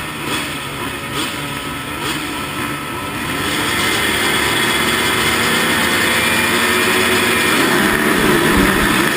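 Motocross bike engines revving, getting louder and busier about three and a half seconds in as they pull away at speed.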